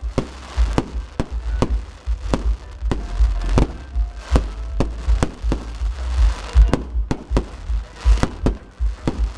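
Fireworks display going off: a rapid, irregular string of sharp bangs and pops, about two or three a second, over a deep booming rumble.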